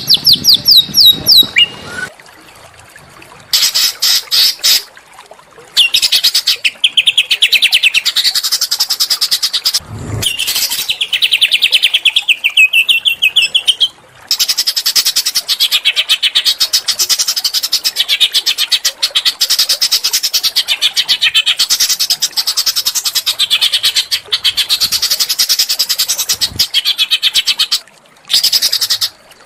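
Small songbird singing harsh, fast trills of rapidly repeated high notes in phrases of a second or several seconds, separated by short pauses; the longest phrase runs without a break through most of the second half.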